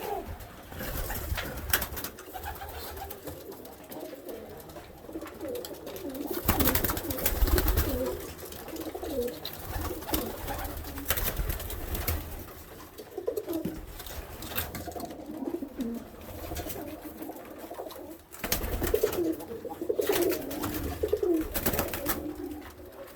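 Domestic pigeons cooing, several birds calling over one another throughout. A few louder rustling noises break in, the biggest about a third of the way in and again about four-fifths of the way through.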